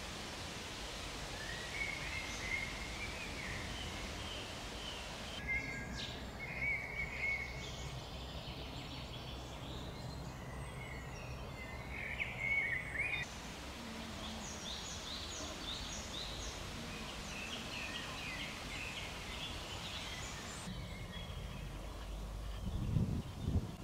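Songbirds singing in woodland over a steady low background rumble, with short repeated chirping phrases; the ambience changes abruptly a few times, and a louder low rumble comes up near the end.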